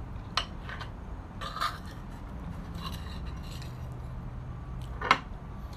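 A handful of light clinks and taps, like cutlery or dishes being handled, the loudest about five seconds in, over a steady low rumble of wind on the microphone.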